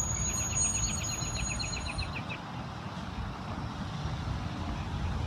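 Steady low rumble of road traffic, with a rapid series of high chirps, about seven a second, lasting around two seconds near the start.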